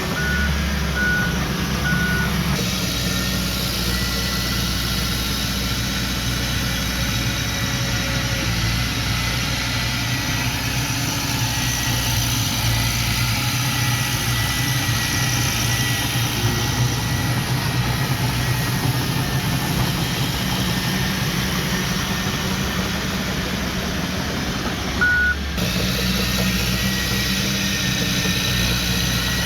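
Diesel engines of heavy earthmoving machinery running steadily, with three short reversing beeps in the first couple of seconds and one more beep near the end.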